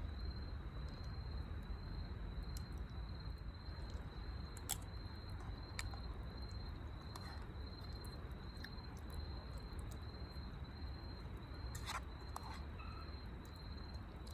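An insect trilling steadily on one high pitch over a low outdoor rumble, with a few sharp clicks.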